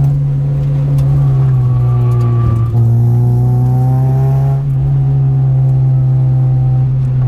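Car engine heard from inside the cabin, pulling hard through the bends; its note slowly rises and eases, dipping briefly twice around the middle.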